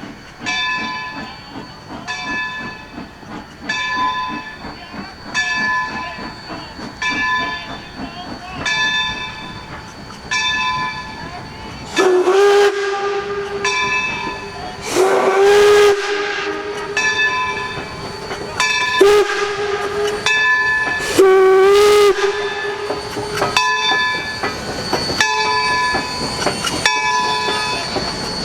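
Baldwin #26 0-6-0 steam locomotive ringing its bell in slow, even strokes, then sounding its steam whistle in two long, one short and one long blast, the grade-crossing signal, with the bell ringing on afterwards.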